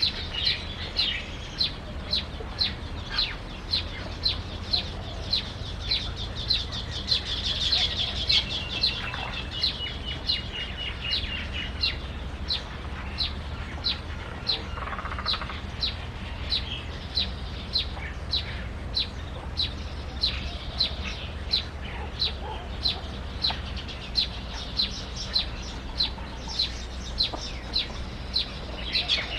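A small bird calling a short, sharp, high note over and over at about two a second, with a brief thin trill in the middle.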